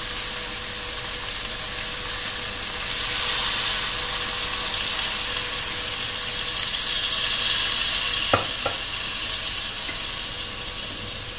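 Chicken pieces sizzling in a hot carbon-steel wok. About three seconds in, as soy sauce goes into the pan, the sizzle grows louder and hissier, and near the end there are two quick knocks.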